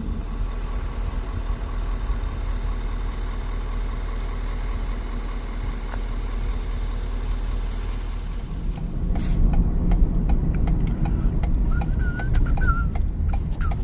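Steady engine and road rumble inside a pickup truck's cab; about two-thirds of the way in, a turn-signal indicator starts ticking about twice a second, with a short wavering high tone near the end.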